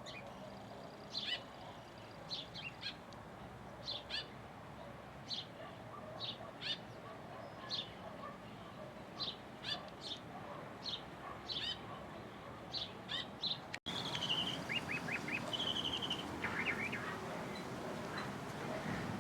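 Wild birds calling: short, high chirps at irregular intervals, and after a brief cut about two-thirds of the way through, different calls with quick trilled notes.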